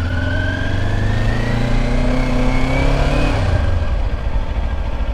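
Kawasaki Ninja 500 SE's parallel-twin engine on its stock exhaust, pulling away under light throttle: its pitch rises steadily for about three seconds, then drops and settles lower.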